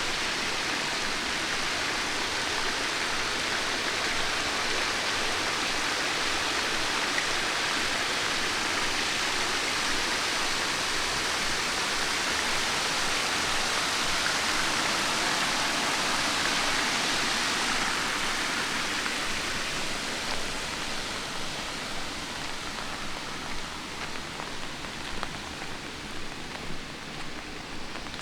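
Steady hiss of light rain and running water on wet city streets, loudest for the first eighteen seconds or so and then fading away. Near the end, separate footsteps on the wet pavement come through the thinner rain sound.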